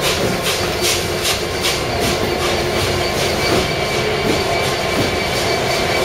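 A train moving through the station, with a regular beat about two and a half times a second that fades away after the first few seconds, over a steady mechanical running sound.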